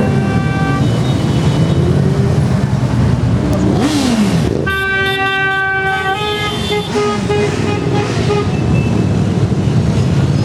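Many motorcycle engines running and revving in a rise and fall, with horns honking over them: a held blast just after the start, a long loud blast a little before the middle, then several shorter toots.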